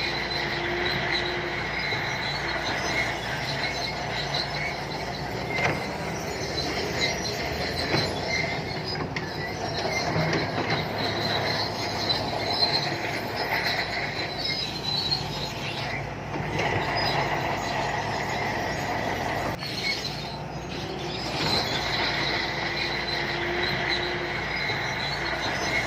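Shantui crawler bulldozer working, its diesel engine running steadily under the high-pitched squeal and scattered clanks of its steel tracks.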